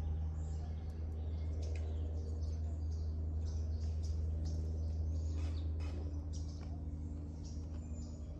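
Small birds chirping and tweeting in quick, scattered calls over a steady low hum.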